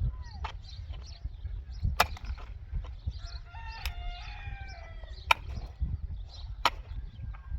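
A rooster crows once: a single drawn-out crow of about two seconds that steps up in pitch and then slowly falls. A few sharp knocks come before and after it.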